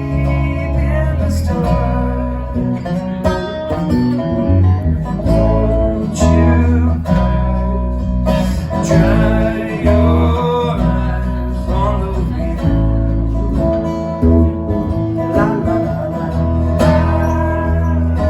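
A band playing a song live, led by guitar over a steady bass, with a voice singing in places.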